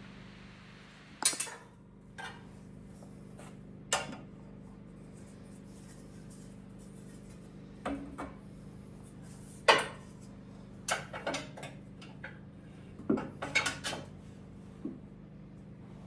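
Scattered sharp metallic clinks and knocks of tools and lathe fittings being handled and clamped, with a cluster of them near the end, over a steady low hum.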